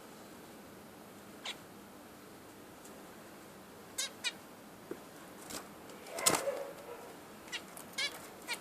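Budgerigars giving short, sharp chirps, about eight scattered calls, with one louder, longer call about six seconds in.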